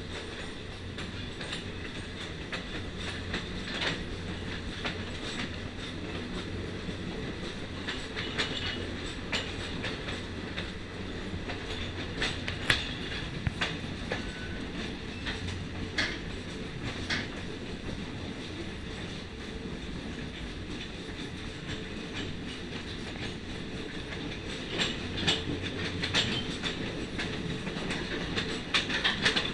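Passenger train cars rolling along the track: a steady rumble of wheels on rail with scattered sharp clicks over the rail joints, more of them near the end.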